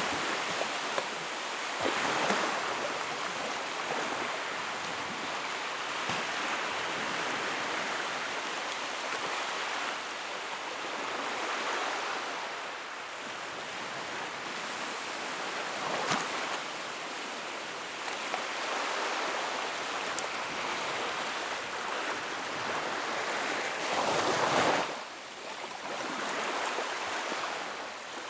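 Sea waves breaking and washing on the shore in a steady surf that swells and eases every few seconds. Louder breakers come about two seconds in and again near the end.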